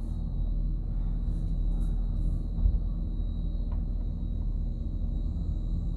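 Steady low rumble heard from inside a van's cabin while it sits in an automatic car wash, with a faint steady high whine and a single thump nearly three seconds in.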